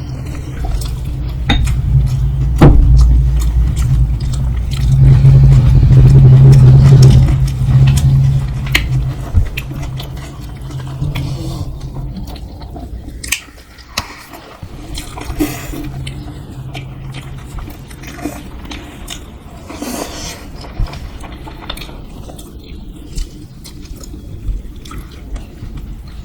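Close-miked eating of dosa: scattered sharp clicks and scrapes with a loud low rumble from about two to twelve seconds in.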